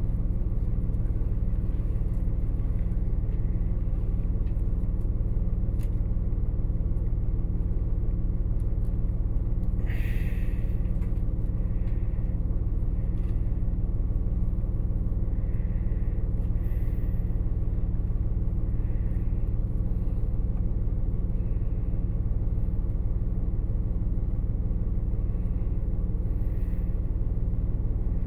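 Steady low rumble inside a train carriage, with a short hiss about ten seconds in.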